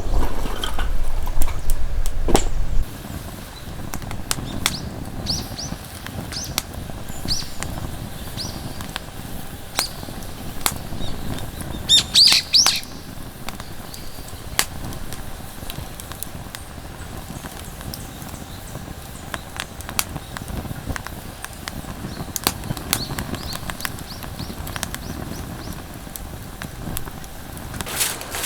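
Steady rain in a forest, with scattered sharp clicks from drops or a wood fire and birds chirping; a louder burst of bird calls comes about 12 seconds in. A low rumble cuts off suddenly about three seconds in.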